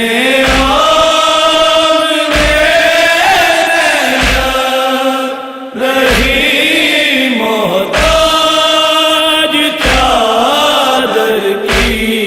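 An Urdu noha, a Shia lament, chanted in long held phrases by a party of reciters, with a low thump marking the beat about every two seconds.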